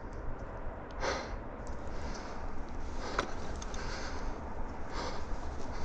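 A person breathing and sniffing, short breaths about a second in and again near the end, with a sharp click near the middle, over a low wind rumble on the microphone.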